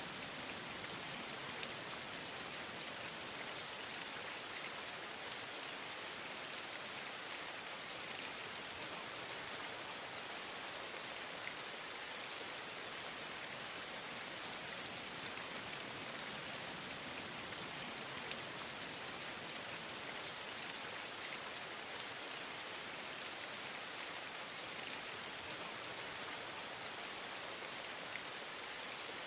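Steady rain falling: an even, unbroken hiss with a few faint scattered ticks.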